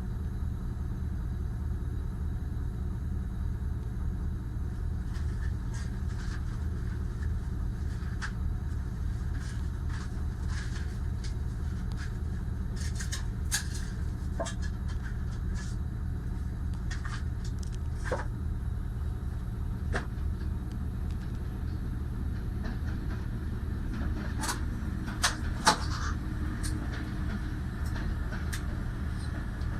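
Steady low rumble of a diesel train at a distance, with scattered light clicks and knocks and two louder knocks a little past three-quarters of the way through.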